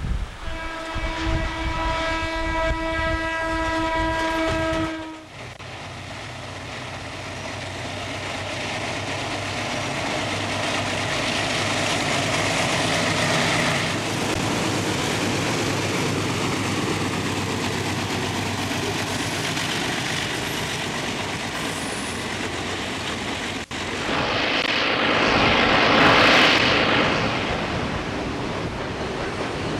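A train horn sounding one long steady blast that cuts off about five seconds in, followed by the rumble and wheel-on-rail clatter of a train rolling past, swelling louder near the end.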